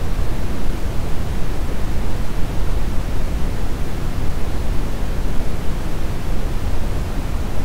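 Brown noise: a steady, even hiss with most of its weight in the deep low end, thinning out toward the highs, with no rhythm or tones.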